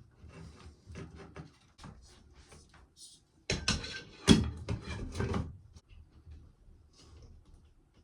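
Scattered clicks, rubs and knocks of objects being handled, with a louder cluster of knocks and scrapes in the middle that peaks in one sharp knock.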